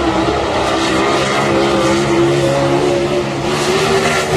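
Several race car engines running at once at high revs, one of them rising slightly in pitch as it accelerates.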